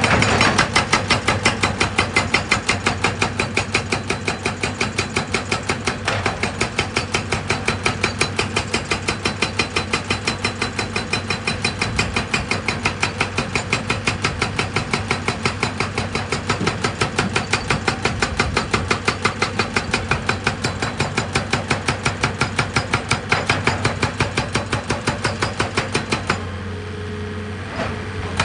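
Heavy machine hammering rock: fast, even percussive blows, about five a second, over a running engine. The hammering stops for about two seconds near the end while the engine runs on, then starts again.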